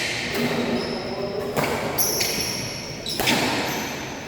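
Badminton rally: sharp racket-on-shuttlecock hits about every second and a half, with short high squeaks between them.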